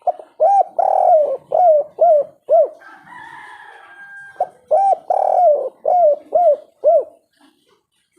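Spotted dove (tekukur) of the 'kuk 3' song type cooing twice. Each phrase has two short coos, one longer coo, then three short 'kuk' notes. A fainter, steadier tone is heard between the two phrases.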